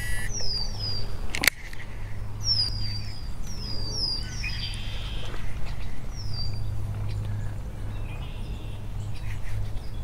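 A bird calling in several runs of short, high chirps, each sliding downward in pitch. There is a single sharp click about a second and a half in.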